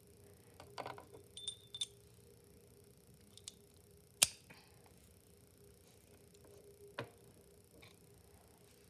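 A hammer striking a hollow hole punch through cork gasket material: one sharp loud strike about four seconds in and a lighter knock near seven seconds, with small tool clatter in the first two seconds.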